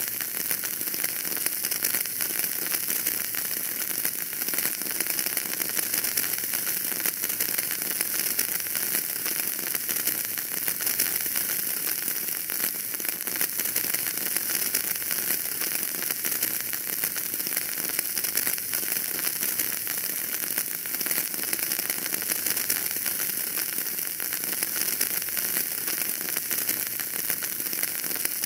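Wood fire burning in a fireplace, crackling steadily: many small pops over an even hiss that stays level throughout.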